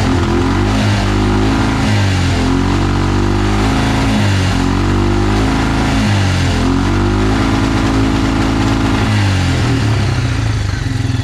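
Quad bike engine running, its revs rising and falling several times before settling back to a lower, lumpy idle near the end. The air box is still fouled with oil after a carburettor change.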